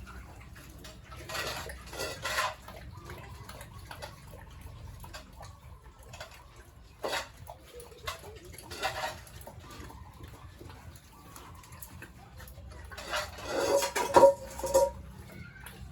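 Metal clattering and scraping in three bursts, the loudest near the end with a brief ringing tone.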